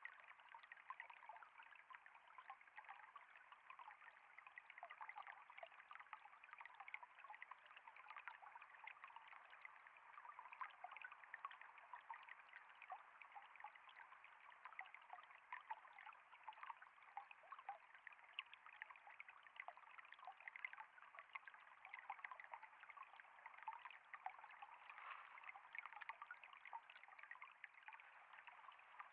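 Water trickling and flowing steadily: a faint, continuous babble with fine, quick flickers and no let-up.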